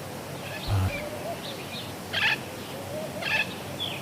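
Parrots chirping and chattering, with two short harsh calls about a second apart. There is a low thump just under a second in.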